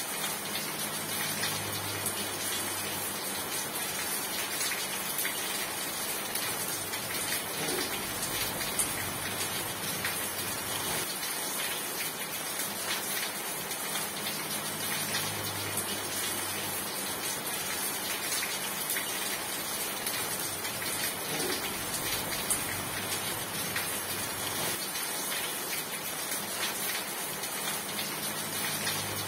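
Steady, heavy rain falling, a dense hiss of many drops striking a surface. A faint low hum rises under it at the start, again about halfway through, and again near the end.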